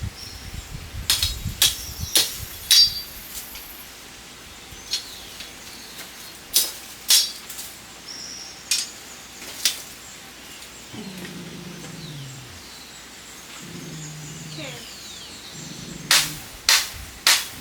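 A series of sharp knocks or strikes at uneven intervals, with a low animal call that falls in pitch, repeated a few times, about two-thirds of the way through.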